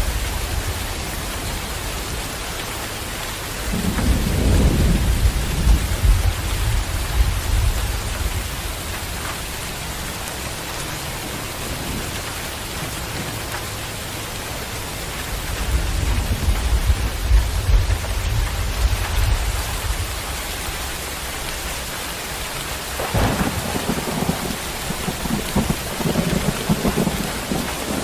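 Heavy rain falling in a steady hiss, with low rumbles of thunder rolling in three times.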